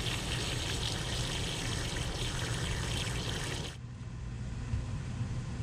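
Water running steadily from an outdoor tap as it is flushed, cutting off abruptly about three and a half seconds in. A quieter low hum follows.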